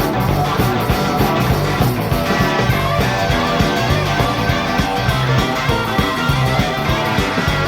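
Live rock band of two electric guitars, bass guitar and drums playing an instrumental break of a fast rock-and-roll song, with a steady driving beat and no vocals.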